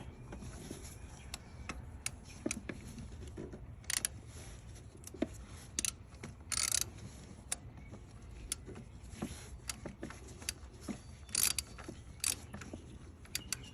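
Scattered metallic clicks and clinks of hand tools on a bolt as it is run in and snugged by hand, with a few longer rattles.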